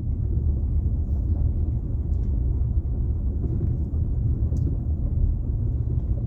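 Car driving on a road, heard from inside the cabin: steady low rumble of the engine and tyres, with a couple of faint brief clicks.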